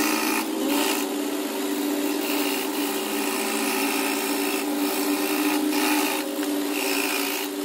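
Small electric power tool running steadily, with a constant motor hum under a rough grinding hiss that swells and eases every second or so, as it works a rusty knife.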